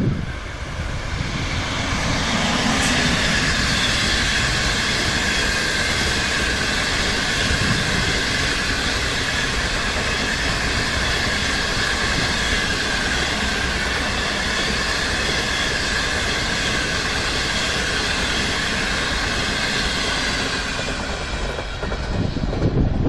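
A train running past on the track: a steady rumble of wheels on rail with high, steady ringing tones. It builds over the first couple of seconds and fades near the end.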